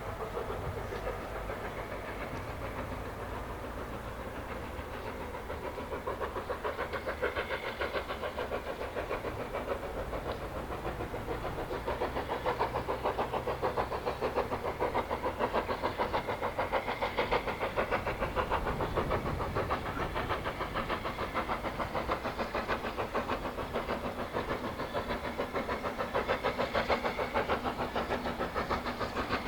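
A railway locomotive running with a steady rapid beat, getting louder about six seconds in and again about twelve seconds in.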